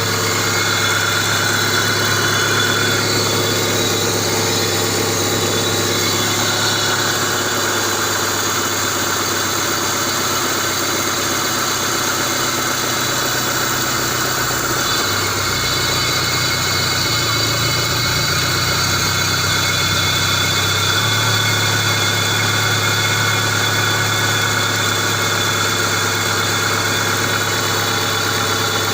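Engine idling steadily, its low note shifting for a few seconds about halfway through before settling back.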